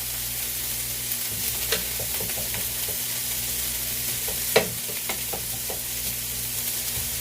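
Onions and bell peppers sizzling in hot olive oil in a skillet, a steady frying hiss with scattered clicks and scrapes from stirring, one sharper knock about four and a half seconds in.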